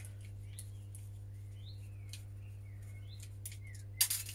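Small birds chirping now and then over a steady low hum, with a few faint clicks of small parts being handled and a short, louder scratchy noise near the end.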